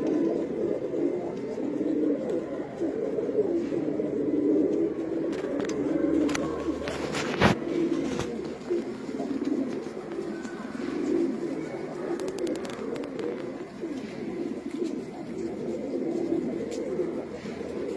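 Many domestic pigeons cooing together, a dense overlapping low murmur of calls. A single sharp knock comes about seven and a half seconds in.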